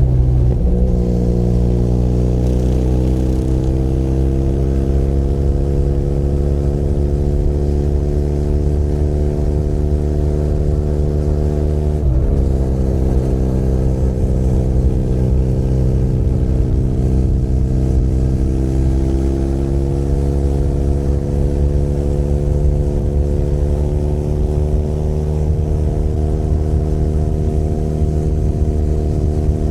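Benelli Leoncino 500 Trail's parallel-twin engine running under way at steady speed, heard from the rider's seat. The engine note breaks briefly near the start and again about twelve seconds in, then its pitch climbs slowly each time.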